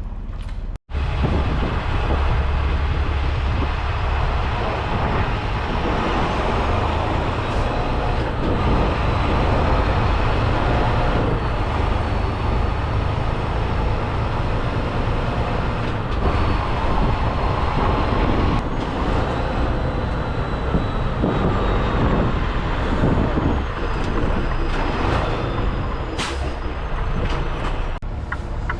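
Semi truck running, a steady loud rumble of engine and road noise, with a momentary dropout about a second in.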